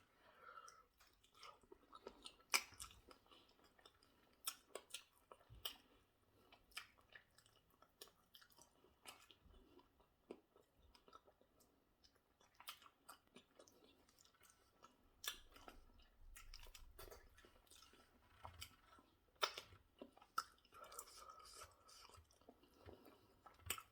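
Faint, close-miked chewing and eating sounds: wet mouth noises with many scattered sharp clicks and small crunches.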